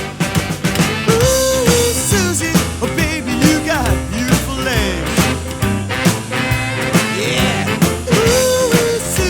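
Rockabilly band playing an instrumental passage: electric guitar bending notes over a stepping bass line and drums, with no singing.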